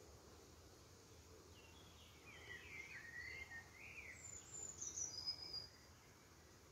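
A songbird singing faintly over a low background hiss. A phrase of quickly changing notes comes about two seconds in, followed by a few high, falling notes around five seconds.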